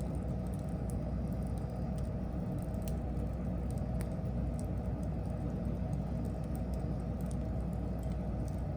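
Wood fire burning: a steady low rush of flame with scattered small crackles and pops.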